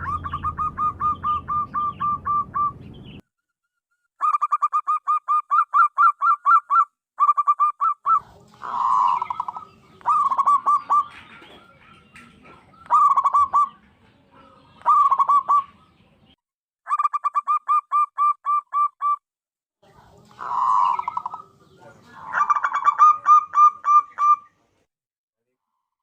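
Zebra dove cooing: about ten phrases of rapid, evenly spaced staccato notes, each lasting one to three seconds, with short pauses between them.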